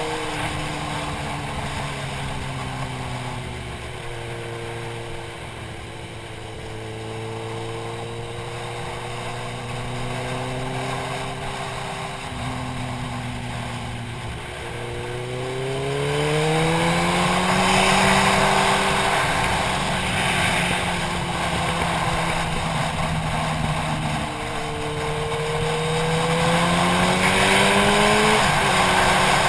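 Motorcycle engine heard through wind rush on a helmet-mounted camera, at an easy, wavering pace at first. About halfway through it accelerates, its pitch climbing as the wind noise grows louder. It eases briefly, then pulls up again, and drops in pitch near the end as it shifts up a gear.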